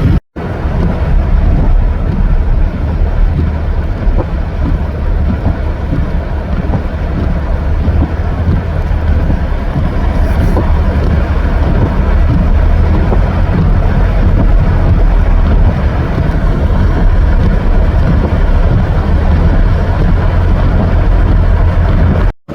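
Wind of a snowstorm blowing hard across the microphone: a loud, steady, rumbling buffet with no pitched tone in it, broken by an abrupt cut just after it begins and again near the end.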